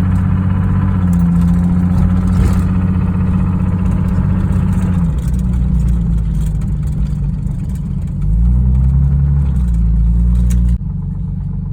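1989 Jeep Cherokee's 4.0-litre inline-six running warm with a slight knocking noise. The owner suspects connecting-rod bearings or lifters; oil pressure falls low at idle once warm. The engine gets louder about eight seconds in, then drops suddenly near the end.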